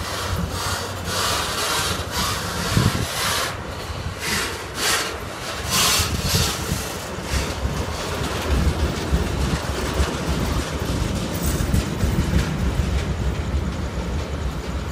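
Railway tank wagons of a freight train rolling past at close range, their steel wheels running on the rails. Repeated sharp clattering for about the first half, then a steady low rumble.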